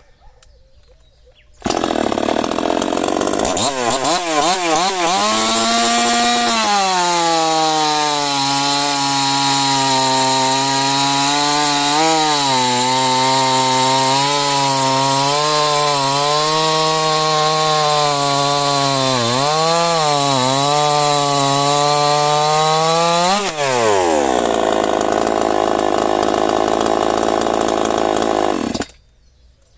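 Chainsaw running loud and steady, its pitch dipping briefly several times as if under load. About 23 seconds in its pitch falls away as it winds down, leaving a rough hiss that cuts off suddenly near the end.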